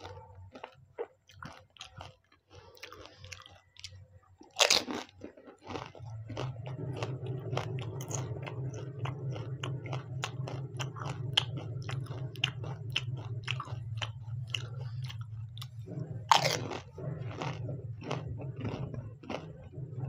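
Crunching bites into water-filled pani puri shells, the two loudest about four and a half and sixteen seconds in, with wet chewing and many small crackles in between. A low steady hum sits underneath from about six seconds in.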